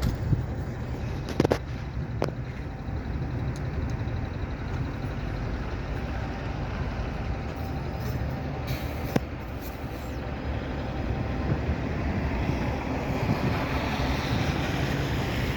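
Street traffic: a heavy vehicle's engine running with a steady low rumble, with a few sharp clicks.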